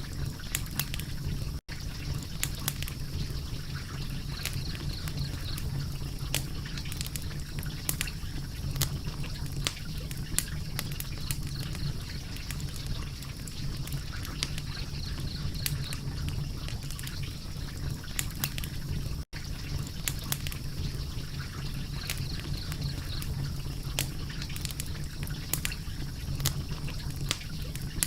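Wood fire crackling: irregular sharp snaps and pops over a steady low rumble, cutting out for an instant twice.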